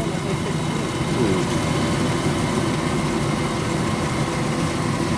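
Kubota DC93 combine harvester running steadily at work, a constant diesel engine and machinery drone with a steady whine above it.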